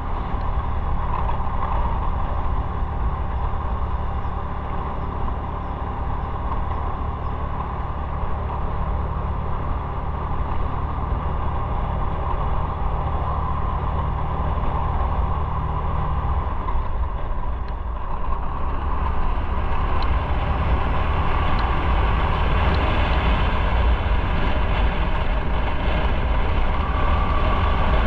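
Motorcycle on the move: engine and wind noise on the rider's microphone, growing louder and brighter about two-thirds of the way through.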